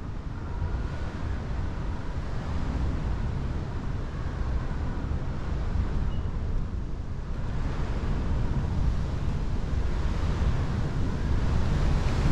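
Strong wind gusting, with heavy wind buffeting on the microphone and a faint whistle running through it; the gust builds, growing louder toward the end.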